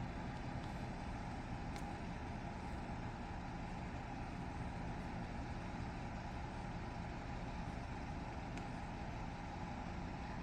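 Vehicle engine idling steadily, a constant low hum with a few faint ticks.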